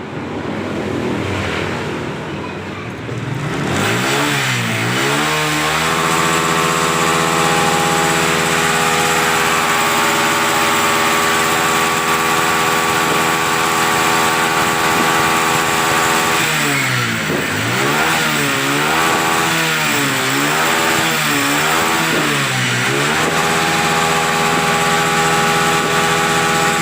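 Large-displacement motorcycle engine revving. About four seconds in its pitch swings down and up, then holds at steady high revs. Near the middle it swings down and up four times in quick succession, then holds steady again.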